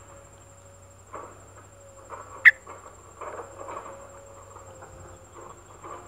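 A parent bird feeding its nestlings in a grass nest makes short scratchy rustles in the nest and leaves. About two and a half seconds in comes a single sharp, loud, rising squeak.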